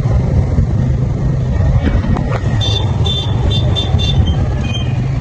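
Steady low rumble of a motorcycle ride, engine and wind noise on the microphone. About halfway through comes a quick run of six or so short, high-pitched beeps.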